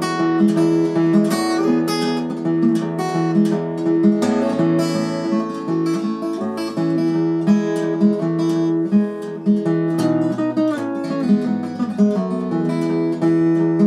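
Brook 'Clyst' parlour acoustic guitar played fingerstyle, an instrumental passage of plucked notes over a ringing bass line.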